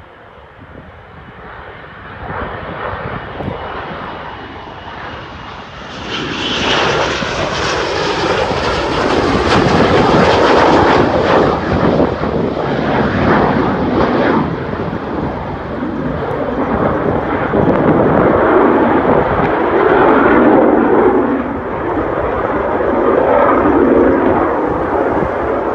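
Panavia Tornado's twin RB199 turbofan engines on approach, a thin high whine growing louder over the first few seconds, then the full jet noise loud and sustained from about six seconds in.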